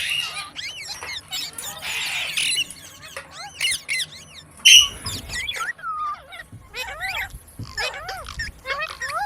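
Parrot chattering with many rapid short chirps and squeaks that glide up and down in pitch, with a harsher squawk about two seconds in and a loud sharp call near the middle.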